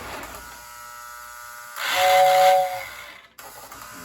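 Lionel Berkshire steam locomotive running on O-gauge track with a steady motor and gear whine; about two seconds in, its tender's electric whistle sounds once for about a second, a two-note airy chord over a rush of air.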